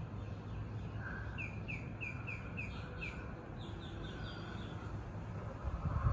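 A songbird singing: a run of about six quick falling whistled notes, then a shorter, higher run, over a steady low hum. A short low bump comes near the end.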